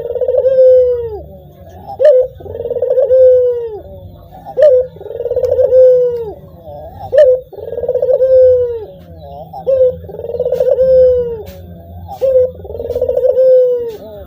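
A puter (Barbary dove) cooing repeatedly and loudly. Each phrase is a short sharp note followed by a long, slightly falling coo, and the phrase comes round about every two and a half seconds, some six times.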